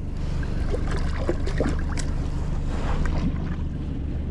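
Boat motor running steadily, with wind on the microphone and a few faint knocks and splashes.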